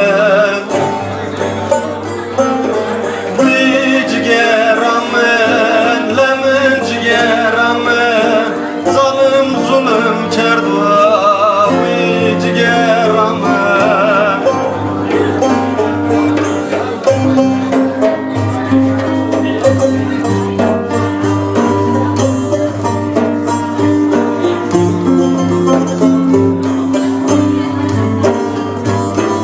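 A man singing a Turkish folk song in a wavering, ornamented voice over plucked-string accompaniment; about halfway through the singing stops and the plucked strings play on alone.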